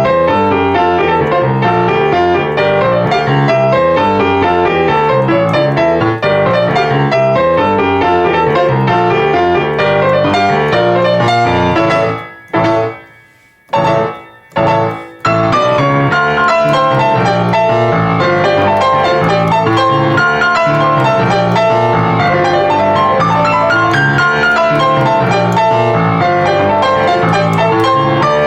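Piano playing a fast, busy passage of running notes. About twelve seconds in it stops short for a few seconds, broken by a couple of short stabbed chords, then the fast playing starts again.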